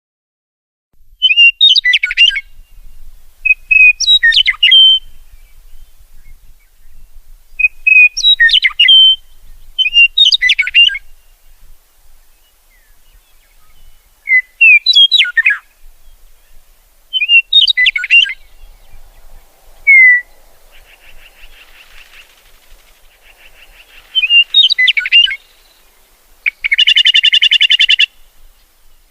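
A songbird singing short, whistled phrases that sweep up and down in pitch, one about every two to three seconds, followed near the end by a harsh, buzzy trill.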